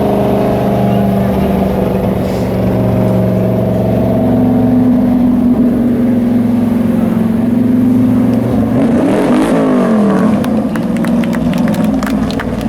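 Hobby-class race trucks' engines running at speed around the oval. About nine seconds in, trucks pass close with their engine pitch sweeping up and down as they go by, accompanied by a spatter of sharp clicks.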